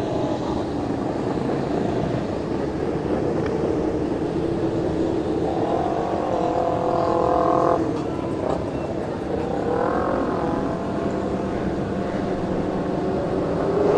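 A stream of motorcycles rolling past, their engines a steady rumble with two passing bikes standing out in the middle as their engine note bends in pitch.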